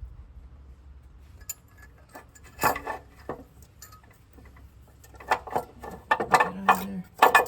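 Light clinks and knocks of small hard objects being handled, a few at first and then a busier cluster in the second half, with a brief low hum just before the end.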